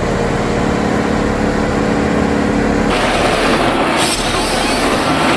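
A heavy machine's engine running steadily, then about three seconds in a louder, rougher grinding noise takes over from the engine's even tone.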